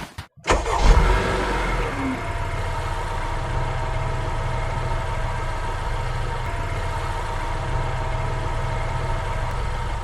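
A motor running steadily at an even pitch, a constant hum of several tones over a low rumble, starting abruptly about half a second in.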